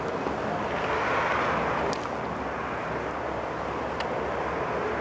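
A train approaching on the station tracks at a distance: a steady rushing noise that swells slightly about a second in, with a few faint clicks around two and four seconds in.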